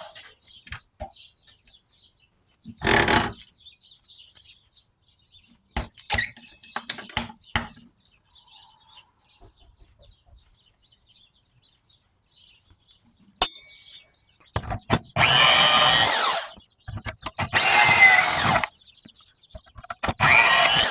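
Bandsaw making three short cuts through the tips of copper thermostat tubes near the end, with clicks and light metal clatter of the tubes being handled in between.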